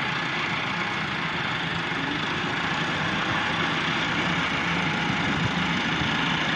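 Massey Ferguson tractor's diesel engine running steadily at an even, low pitch.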